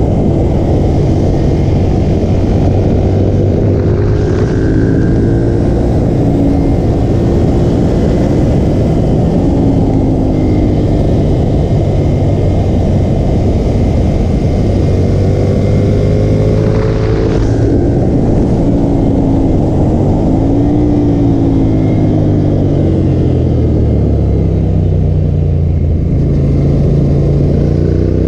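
Motorcycle engine on a racetrack, its revs climbing and dropping repeatedly through gear changes and corners, under a constant loud rushing noise.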